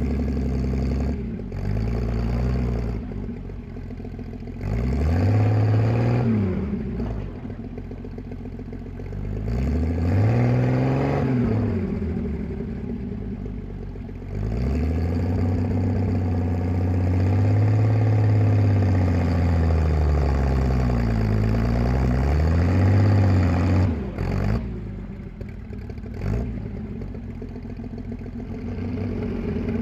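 1938 GMC truck's engine running under way, its pitch rising and falling about four times as it is revved up and eased off, with one long pull of about ten seconds in the middle.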